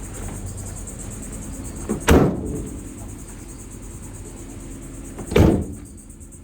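Two heavy metal door slams about three seconds apart: the rear cargo doors of a 2023 Ram ProMaster 3500 van being shut. The top latch might be sticking, which makes the rear door hard to close.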